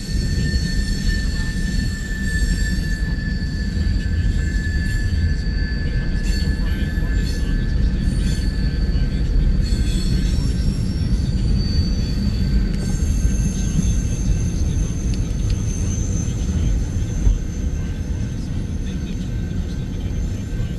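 Empty coal train's cars rolling past: a steady rumble of steel wheels on rail, with thin, high-pitched wheel squeal held over it.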